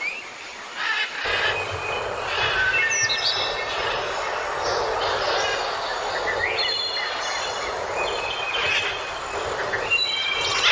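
Birds calling in short series of quick, high whistled notes and chirps, over a steady rushing noise that comes in about a second in.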